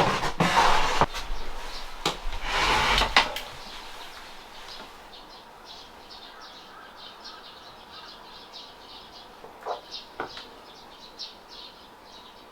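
Two short bursts of rustling or sliding noise in the first few seconds, then a steady run of small, quick bird chirps repeating a few times a second.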